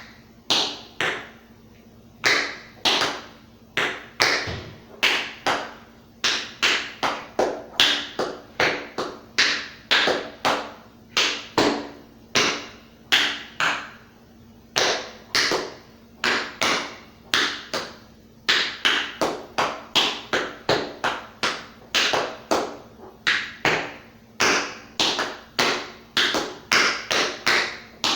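Tap shoes striking the floor in a tap dance routine without music: sharp metal-plate taps in rhythmic clusters, some quick runs of several taps a second and short pauses between phrases.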